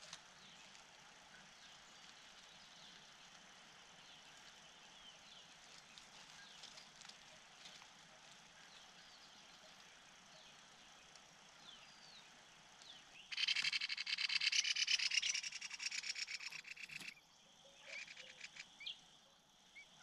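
Faint scattered bird chirps, then, about 13 seconds in, a loud, very rapid rattling trill from a bird lasting about four seconds and cutting off suddenly, followed by a couple of short rattles.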